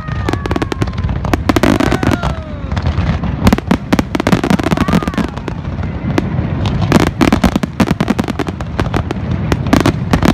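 Fireworks display going off: a continuous run of sharp bangs and crackling, with dense bursts of crackle about seven seconds in and again near the end.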